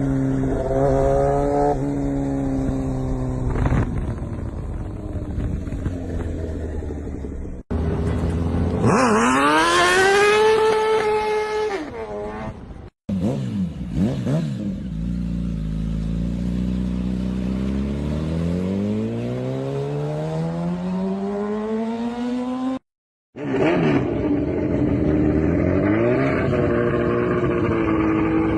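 Engines revving in a run of separate clips. Each sound rises and falls in pitch, with one long slow climb in the middle, and each clip cuts off abruptly about 8, 13 and 23 seconds in.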